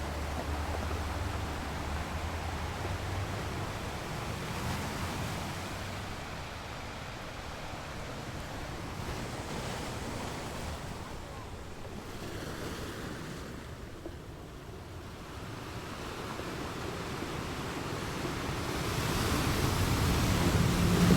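Ocean surf washing on a beach, a steady hiss of water that eases in the middle and swells again near the end.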